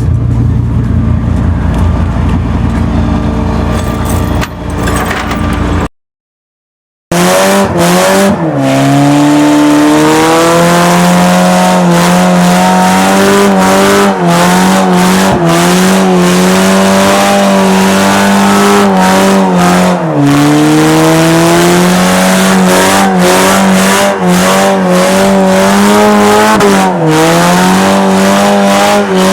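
Straight-piped 2.2-litre four-cylinder engine of a Pontiac Sunfire held at high revs during a burnout, a steady high engine note that sags briefly in pitch a few times. Before this, a lower rumbling engine sound cuts off to a second of silence about six seconds in.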